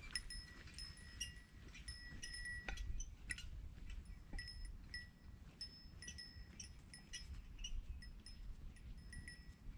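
A small metal bell tinkling over and over, a couple of short rings a second, with a low rumble of wind underneath.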